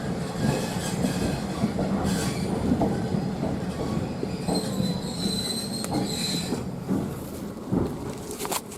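Toyama Chiho Railway electric train running, heard from inside the car: a steady rumble of wheels on rail, with a high wheel squeal for about two seconds in the middle. The rumble eases toward the end as the train slows for the station.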